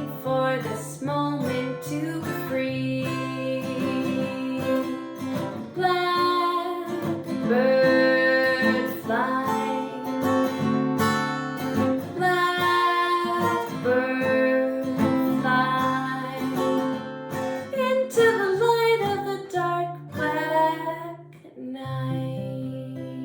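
Acoustic guitar playing with a woman singing a slow melody, the music dying away near the end.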